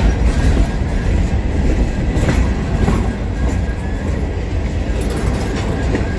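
A diesel freight train running on the rails close by: a steady, loud, low rumble with wheel noise.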